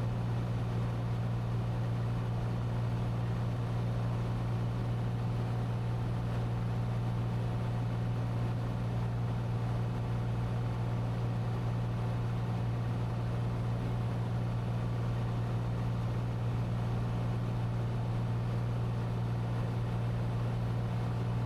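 Cessna 182T's six-cylinder Lycoming engine and propeller in steady cruise, heard from inside the cockpit as an even, unchanging low drone.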